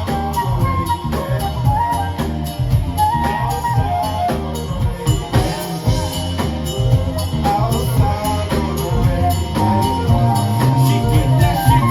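Live band playing an instrumental passage: a steady drum beat and bass under a wandering lead melody.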